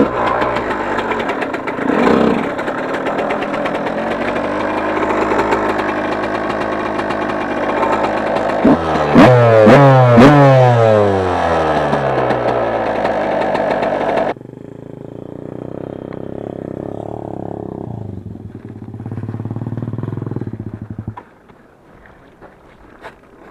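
Yamaha YZ125 two-stroke motocross bike running and revving while riding, its pitch rising and falling, with the sharpest revs about nine to eleven seconds in. About fourteen seconds in the sound turns suddenly duller and quieter, and near the end the engine drops to a low level with a few knocks.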